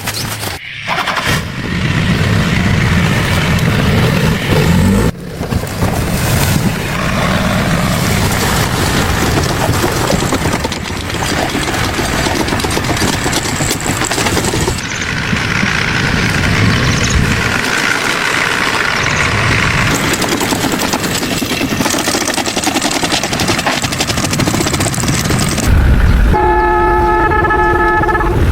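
Loud, changing vehicle or machinery noise that shifts abruptly several times. Near the end a vehicle horn sounds as one steady tone for about two seconds.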